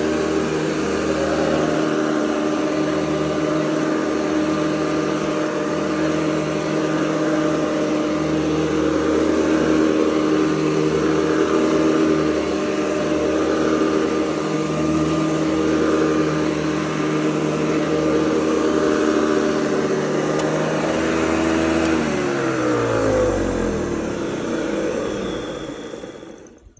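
Hoover Convertible U4101 upright vacuum cleaner running steadily, then switched off about 22 seconds in, its motor winding down in a falling whine until it stops near the end.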